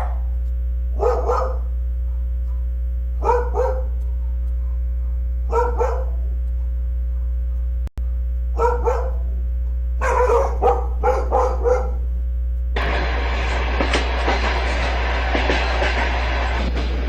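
A dog barking in double barks every two seconds or so, with a quicker run of barks about ten seconds in. About thirteen seconds in, the noise of a passing train sets in and continues, over a steady low hum.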